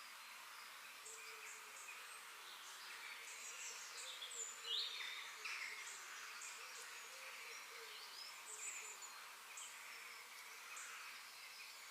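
Faint park ambience of small birds chirping and calling, with many short chirps and a few quick pitch glides over a steady background hiss; the loudest call comes a little under five seconds in.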